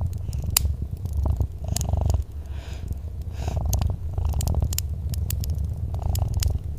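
A cat purring, a steady low rumble that swells and eases with each breath. Sharp crackles and pops from a fireplace are scattered throughout.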